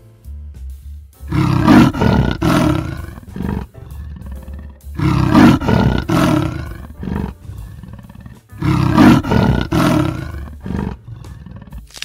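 An animal roaring three times, each call about two and a half seconds long and separated by short gaps, over background music.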